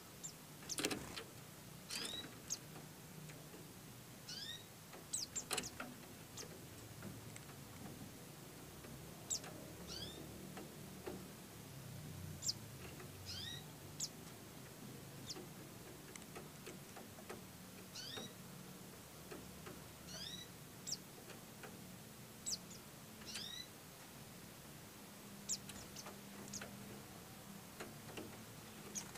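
Short, thin, high-pitched chirps from white-eyes (pleci), each a quick downward slide, repeated irregularly every second or two over a faint low hum.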